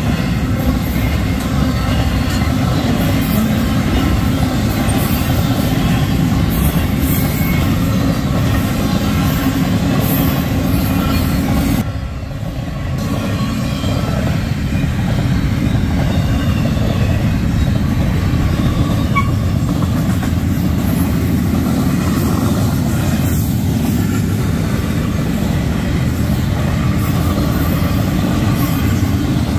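Union Pacific intermodal freight train's cars rolling through the grade crossing: a steady, loud rumble of wheels on rail, dipping briefly about twelve seconds in.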